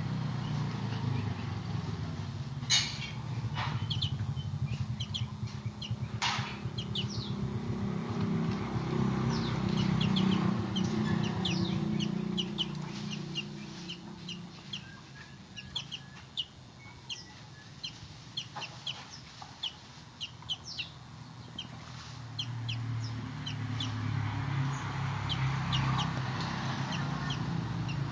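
Javan bush lark (branjangan) twittering in a rapid run of short, high chirps, with a few sharp clicks in the first seconds. A low steady hum runs underneath.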